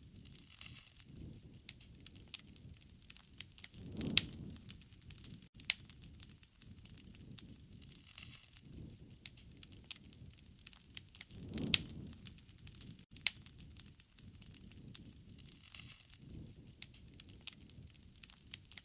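Wood fire crackling, with frequent sharp pops and snaps over a low rushing bed that swells three times.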